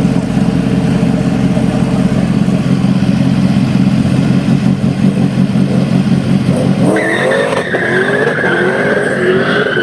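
Drag cars' engines running with a loud steady low rumble; about seven seconds in, the sound changes abruptly to rising engine notes and a sustained high squeal as the cars launch down the strip.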